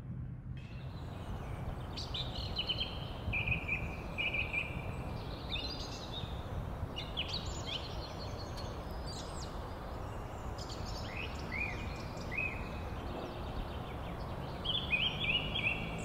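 Birds calling: repeated clusters of short, high chirping notes and quick rising whistles, coming and going in bouts over a steady outdoor background noise.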